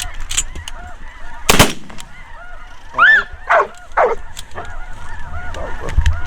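A flock of geese calling, with many overlapping honks and cackles. A sharp, loud blast comes about a second and a half in, and a few loud, close honks follow about three and four seconds in.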